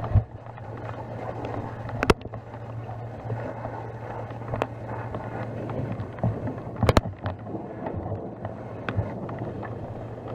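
An engine running with a steady low hum, with a few sharp knocks about two, four and a half, and seven seconds in, and wind rumbling on the microphone.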